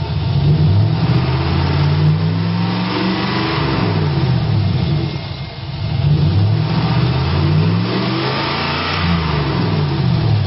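A 2002 Chevrolet Silverado 2500 HD's 6.0-liter gasoline V8 being revved twice, its pitch rising and then falling back to idle each time, with a short drop between the two revs.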